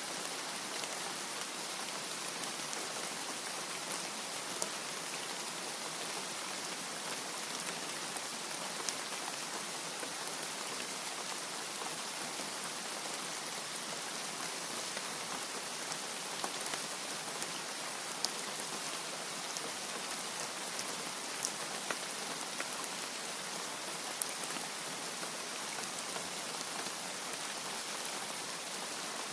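Steady rain, an even hiss with scattered sharp drop ticks standing out now and then, and no thunder.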